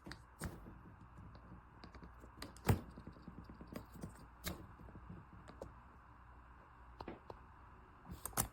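Hard-shell polycarbonate suitcase being handled: scattered light clicks and taps, with one sharper knock about three seconds in.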